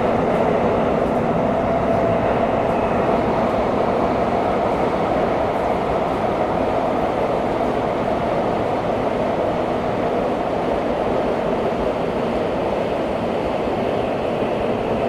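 Steady running noise of a Tokyo Metro 17000 series subway train heard from inside the passenger car: a dense rumble of wheels on rail and car body, with a faint motor tone early on that fades, the whole sound easing slightly toward the end.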